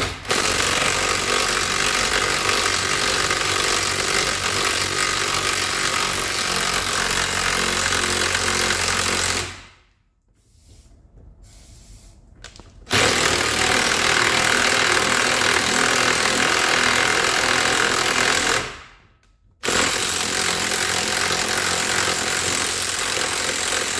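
Pneumatic impact wrench hammering on a corroded rear suspension bolt to spin it free of its binding. It runs in three long bursts, stopping briefly about ten seconds in and again near nineteen seconds.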